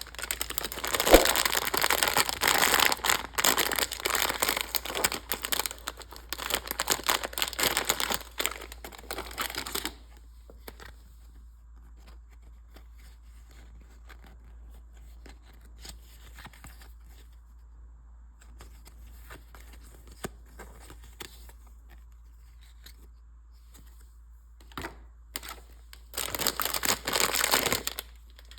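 Packaging of a mystery toy crinkling and tearing as it is opened by hand, dense and crackly for about the first ten seconds. Then faint scattered rustles and clicks, and another short burst of crinkling near the end.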